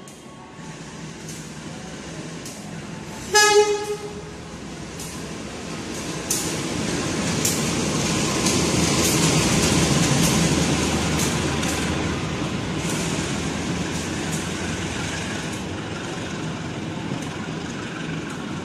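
CC 201 diesel-electric locomotive running through the station without stopping. It gives one short horn blast about three seconds in, then its engine and wheels swell to a loud rumble as it passes. Regular clacks from the wheels continue while the passenger carriages roll by and the sound slowly fades.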